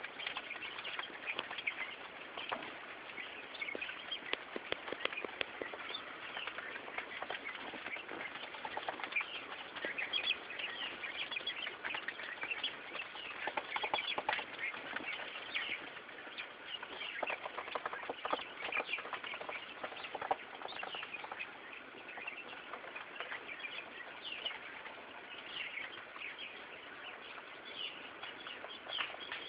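Quail dust-bathing in sand: steady rustling and wing-fluttering as they scratch and shake in the sand, with many short, high chirps throughout.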